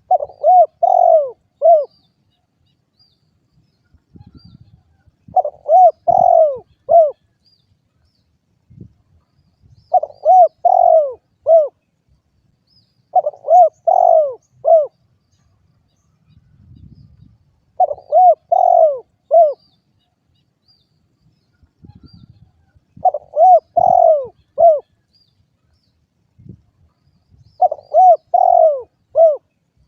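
Spotted dove (derkuku) cooing: seven phrases in all, each a run of four or five short rising-and-falling coos, repeated every four to five seconds.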